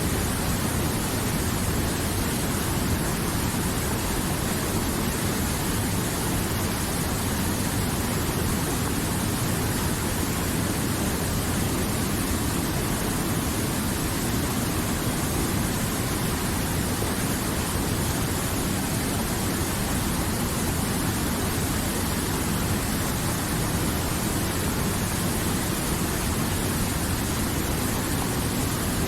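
River water flowing in a steady, unchanging rush.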